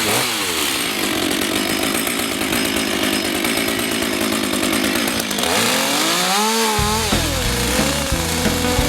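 Chainsaw cutting into wood, running steadily under load for about five seconds, then its pitch rising and falling as the engine is revved up and down.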